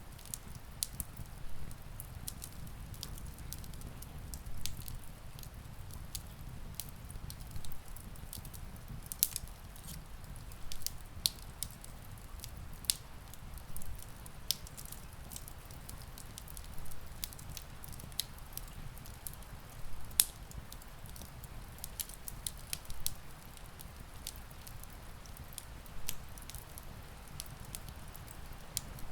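Wood fire crackling, with irregular sharp pops and snaps, a few louder than the rest, over a steady low rumble and the soft hiss of rain.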